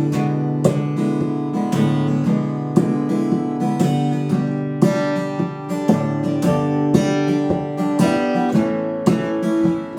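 Acoustic guitar strummed solo, chords struck in a steady rhythm with changes along the way: the instrumental intro to a song.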